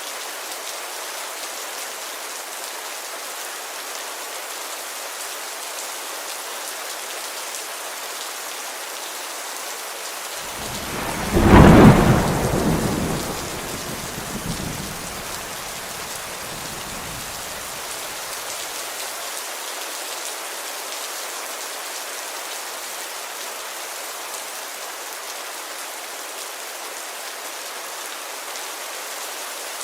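Steady rain pattering on a window glass. About a third of the way in, a thunderclap breaks loudly, then rumbles away over several seconds.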